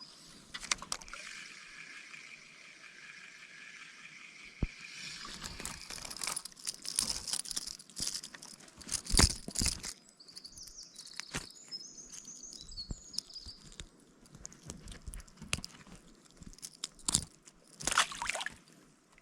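Footsteps crunching and rustling over forest ground, in an irregular run of crunches and knocks, with a few short high chirps about ten to thirteen seconds in.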